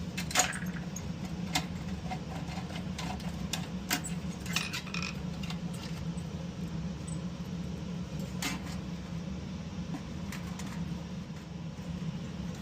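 Scattered metallic clicks and clinks of a screwdriver and sheet-metal parts of a dryer being worked on, over a steady low hum.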